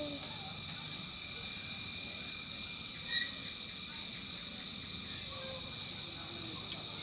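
A steady, high-pitched chorus of insects with a fast, even pulsing, and a single short chirp about three seconds in.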